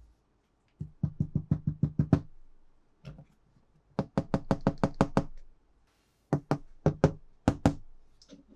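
Rapid tapping or knocking in three quick runs of about seven to ten taps each.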